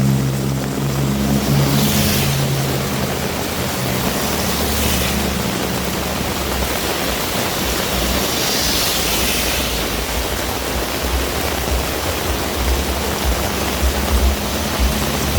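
Heavy rain falling steadily, a dense even hiss. A passing vehicle's engine hum fades out during the first couple of seconds.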